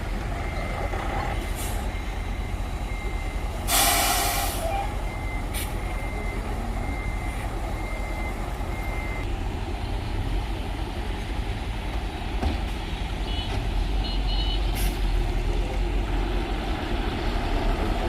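Heavy diesel earthmoving machinery running steadily with a low rumble, with a short burst of hiss about four seconds in and a faint steady high tone over the first nine seconds or so.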